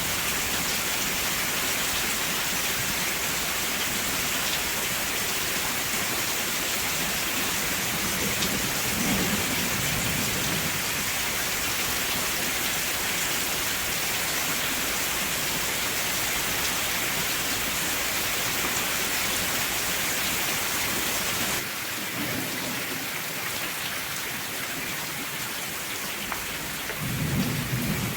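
Steady heavy rain falling, with low rumbles of thunder about a third of the way in and again near the end. The rain changes abruptly and turns a little quieter about three quarters of the way through.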